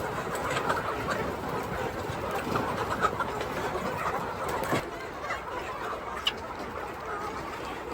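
A flock of chickens clucking, many overlapping short calls, with a few sharp taps; it gets a little quieter about five seconds in.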